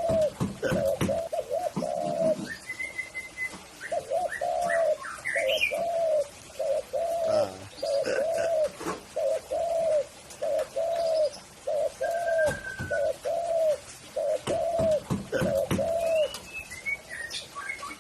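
Spotted dove (tekukur) cooing: a long run of repeated, evenly spaced rounded coos, about one and a half a second, breaking off once about two seconds in and stopping near the end. Higher chirps from small birds and a few short clicks come in between.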